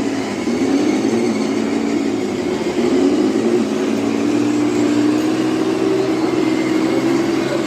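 Radio-controlled model truck running, with a steady motor whine whose pitch rises and falls with the throttle.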